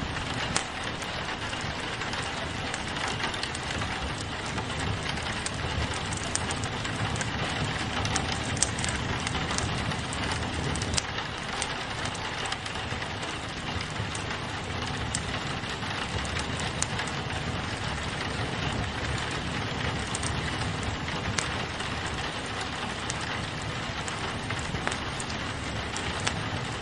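Steady rain falling against a window, mixed with a wood fire crackling, with frequent small sharp pops and snaps.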